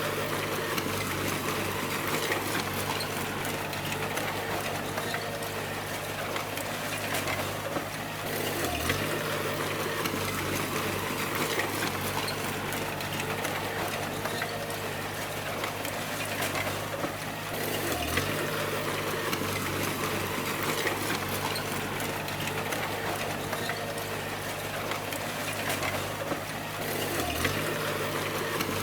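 Bulldozer's diesel engine running steadily under a wide hissing rush. The sound swells and dips in a cycle that repeats about every nine seconds.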